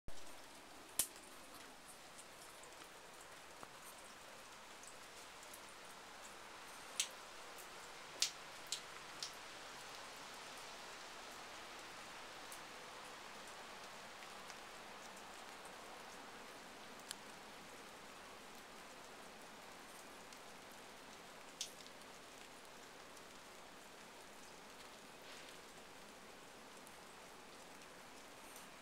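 Steady light rain falling, with a few sharp drip-like taps close by, a cluster of them about a third of the way in and one more later.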